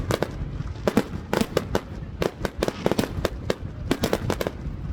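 Aerial fireworks shells bursting in a rapid, irregular string of sharp bangs, several a second.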